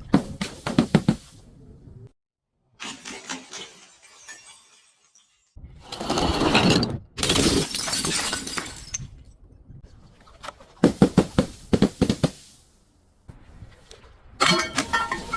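Glass being smashed and crushed in about five separate bursts, each a run of sharp cracks and crunching shards, with short gaps between them.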